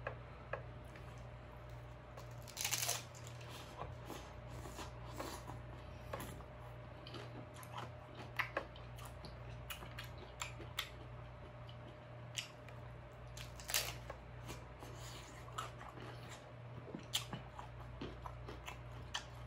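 Close-up eating sounds of a crisp fried corn tostada topped with shrimp ceviche being bitten and chewed: scattered crunches and wet mouth clicks, the loudest crunches about three seconds in and again near fourteen seconds, over a low steady hum.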